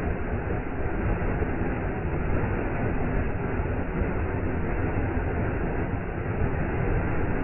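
Waterfall: a steady, even rush of falling water, heaviest in the low end and with no change or pause.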